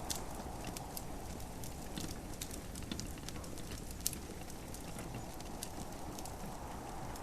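Wood fire crackling in a fireplace, with irregular sharp snaps and pops over a steady hiss of rain.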